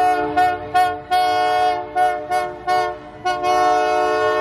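Diesel locomotive's multi-tone air horn sounding a quick series of short toots, then a long held blast from about three seconds in, as the holiday train signals its departure.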